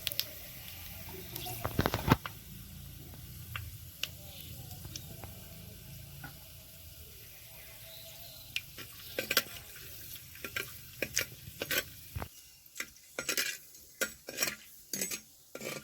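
Whole spices (cloves and cardamom) frying in oil with a faint sizzle while a spatula stirs them, knocking and scraping against the pan. The knocks come more often in the second half.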